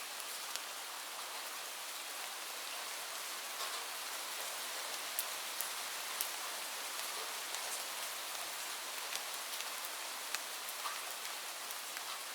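Steady rainfall: an even hiss of rain with scattered sharp ticks of single drops striking close by.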